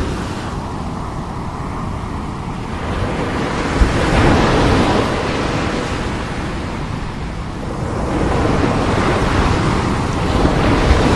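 Strong sea waves breaking and washing in, surging about four seconds in and again near the end, with wind buffeting the microphone.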